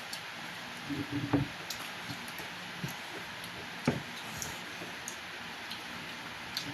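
Quiet mealtime handling sounds: a few soft knocks and clicks of food and tableware being handled, one sharper click about four seconds in, over a steady background hiss.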